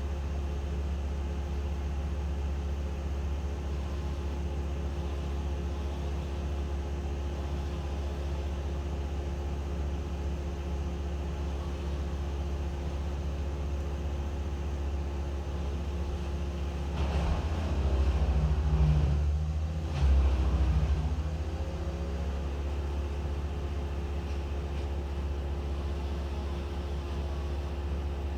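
An engine running steadily at a low, even speed, with a louder stretch of several seconds a little past the middle.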